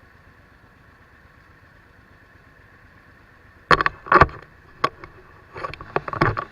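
Faint steady hum of the ride, then about halfway through a run of five or six loud, sudden knocks and scrapes right on the microphone, the last ones bunched together near the end.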